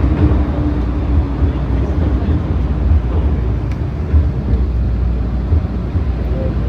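MTR Kwun Tong line electric train running, a steady low rumble of wheels and motors.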